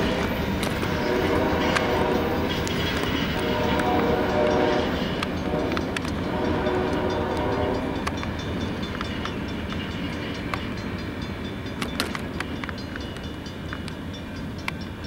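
Passing freight train with its locomotive horn sounding several blasts over the rumble, the last blast ending about eight seconds in. Wheels then clatter over the rails as the train's sound fades.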